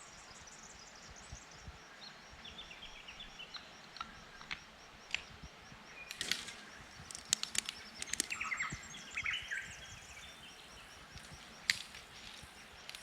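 Wild birds calling in short chirping phrases over a faint steady background, with a high pulsing trill and scattered sharp clicks.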